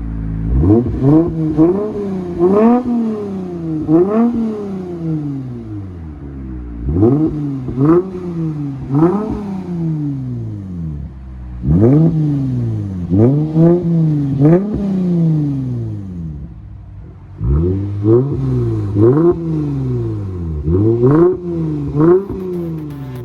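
Lexus RC 350's 3.5-litre V6 through a Street Demon performance exhaust, revved in quick blips, each rising and dropping back within about a second, in four bursts of three to five revs with idle between them.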